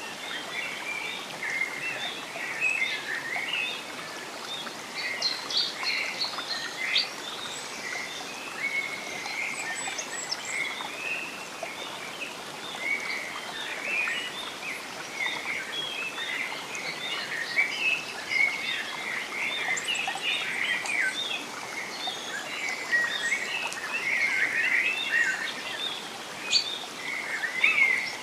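Many birds chirping and singing at once in a dense, continuous chorus of short high calls, over a steady background hiss.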